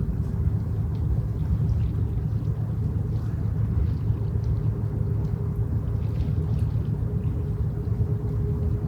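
Engine of a passing ship or barge: a steady low rumble with a faint steady hum above it.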